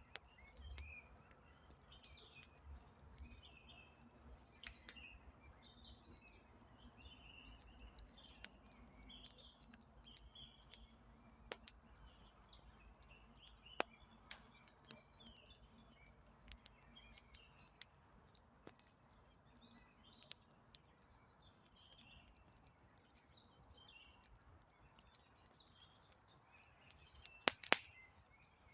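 Faint wood campfire crackling, with scattered sharp pops and a louder burst of pops near the end, while small birds chirp steadily in the background.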